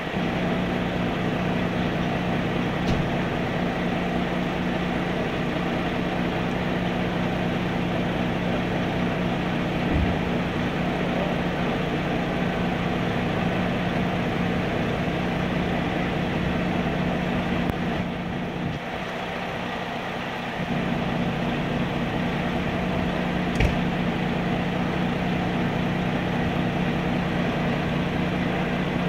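A truck engine idling steadily, its low hum dropping briefly for a couple of seconds about two-thirds of the way in.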